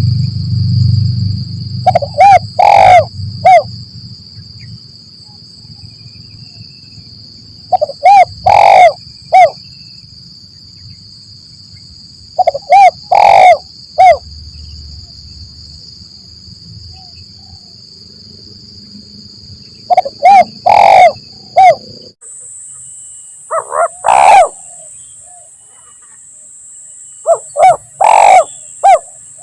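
Spotted dove (tekukur) cooing: about six short phrases of three or four low notes each, spaced several seconds apart. A steady high-pitched whine runs behind the calls.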